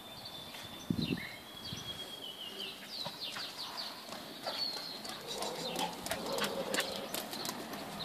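Small birds chirping, many quick high falling chirps with a few thin held notes, busiest around the middle. A low thump about a second in, and a run of sharp clicks near the end.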